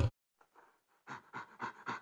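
A loud roar cuts off at the very start, and about a second later an animal begins panting quickly, about four breaths a second.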